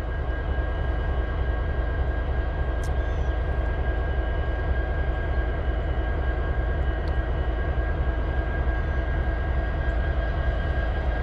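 CSX diesel locomotive idling while parked: a steady low engine drone with a faint, steady high whine over it.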